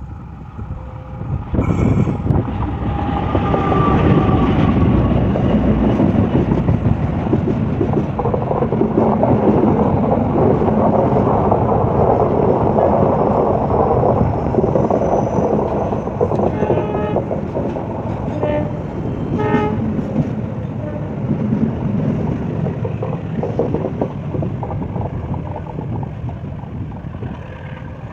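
A train hauled by a CC206 diesel-electric locomotive passes close by. The rumble of engine and wheels swells about a second and a half in, stays loud through the middle with a few sharp clicks from the wheels, then slowly eases off.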